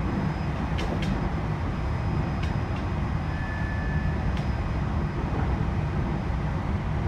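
JR East E129 series electric train running, heard from inside the motor car: a steady low rumble of wheels and traction motors, with a few sharp clicks and a brief faint high tone around the middle.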